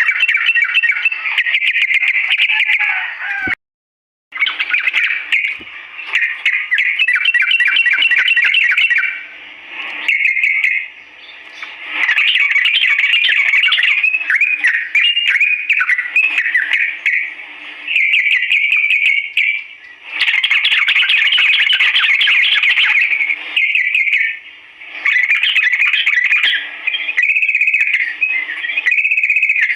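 Yellow-vented bulbul (trucukan) singing its long, fast, chattering song, in loud runs of rapid notes broken by short pauses. The sound cuts out completely for under a second near the start.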